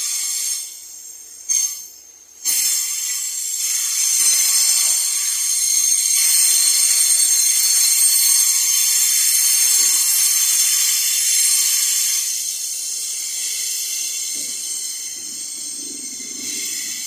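Loaded iron-ore train passing, giving a loud high-pitched hissing screech. Two short bursts come in the first two seconds, then the sound swells about two seconds in, holds, and eases off in the last few seconds.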